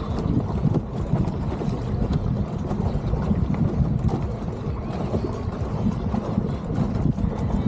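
Wind buffeting the microphone: a steady low rumble that rises and falls unevenly.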